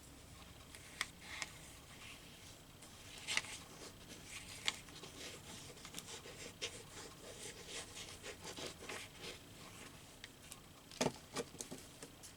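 Paper handling at a craft table: rustling, rubbing and small clicks as cut magazine pieces are moved and pressed down, with a soft knock near the end.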